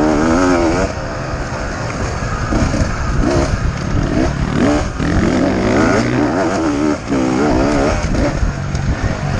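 Beta 250RR two-stroke enduro motorcycle engine under hard riding, revving up and dropping back again and again as the throttle is worked and gears are changed.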